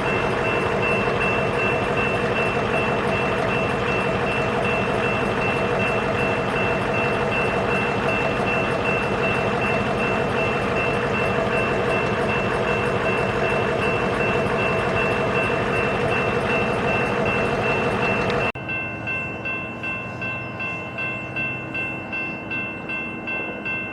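Freight train noise from BNSF diesel locomotives: a steady drone with several high held tones, which cuts off abruptly about 18 seconds in to a quieter sound that pulses a little more than once a second.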